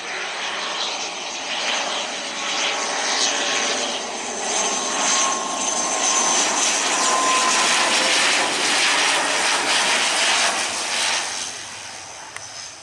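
Airliner's engines passing close by: a loud rushing noise with thin, high whining tones that builds over several seconds, then falls away about a second before the end.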